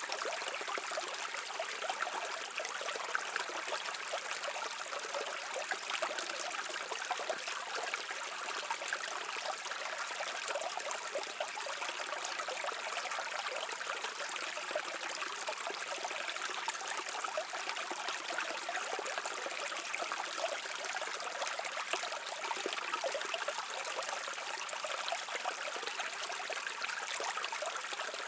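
Small stream flowing and babbling over rocks, a steady, even rush of water with a fine trickling texture.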